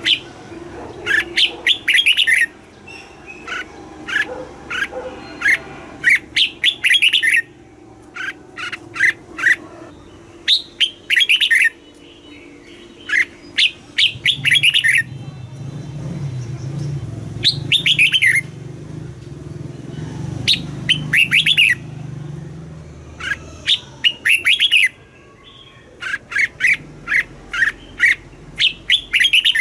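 Red-whiskered bulbul singing: short, rapid phrases of clear chirping notes, repeated every couple of seconds with brief pauses between them.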